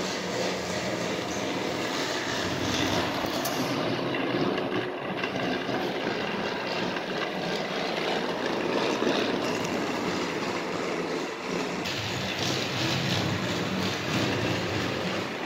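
Battery-powered TrackMaster toy engine running along plastic track: a steady motor whir with the rattle of the wheels on the track.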